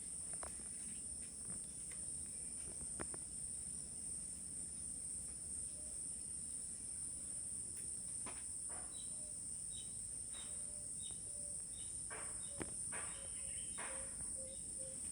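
Steady high-pitched drone of an insect chorus. About halfway through, a run of short scratchy sounds and small repeated pips comes in over it.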